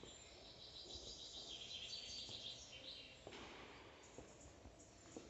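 Faint recorded birdsong, chirping and twittering, busiest around two seconds in, over a low background hiss.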